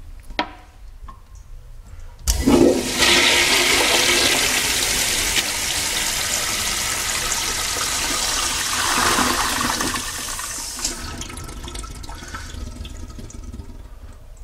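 Crane Presto flushometer toilet flushing: a sharp thunk as the valve is tripped about two seconds in, then a loud, steady rush of water that drops to a quieter flow about ten seconds in.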